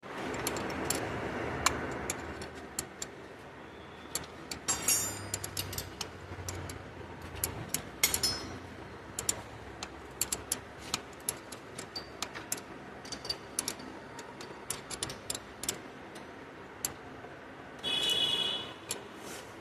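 Irregular sharp clicks and knocks, several a second, of tools and metal parts being handled during car air-conditioning repair work. A short buzzing sound comes about two seconds before the end.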